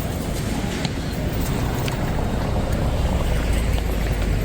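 Old-town street ambience with a low rumble that grows louder over the last second or two.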